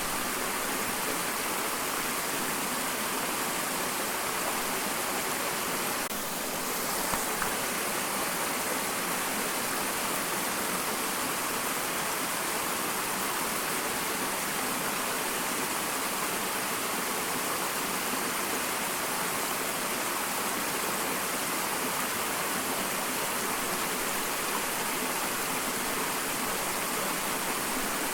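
Small waterfall, water pouring and splashing steadily in an even rushing hiss.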